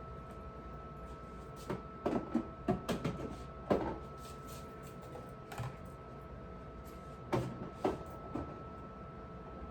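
Scattered knocks and clunks of household items being handled and set down, bunched together around the second and fourth seconds with a few single ones later, over a steady electrical hum.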